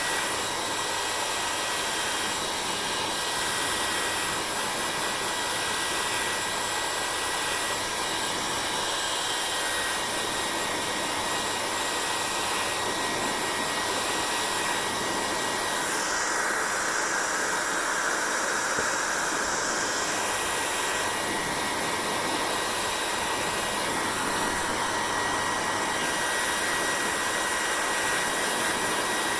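Hair dryer running steadily, a continuous rush of blown air with a thin steady whine on top. About halfway through, the tone of the airflow shifts for a few seconds before settling back.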